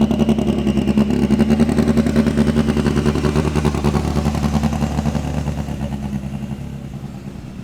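Small vehicle's engine running with an even, rapid firing pulse, growing steadily fainter over the last few seconds.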